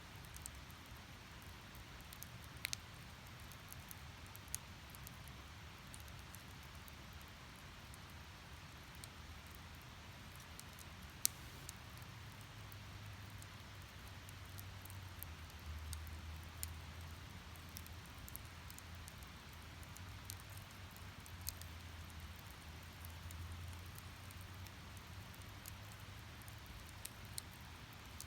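Split firewood burning in a Snow Peak Takibidai S steel fire pit: a faint steady hiss of flame with scattered sharp crackles and pops, the loudest snap about 11 seconds in. A low rumble of the flames grows about halfway through.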